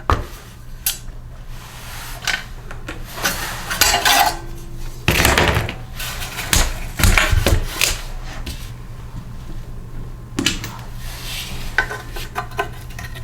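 Irregular metallic clinking and clattering of hand tools and small engine parts being handled and set down, as the muffler-cage bolts come off a small Briggs & Stratton mower engine.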